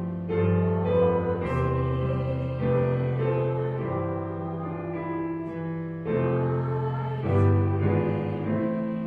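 A keyboard plays slow hymn music in held chords that move to a new chord about every second.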